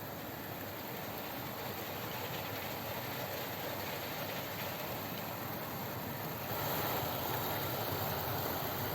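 OO gauge model train running along the layout's track, a steady whirr of motor and wheels on rail that gets louder about six and a half seconds in.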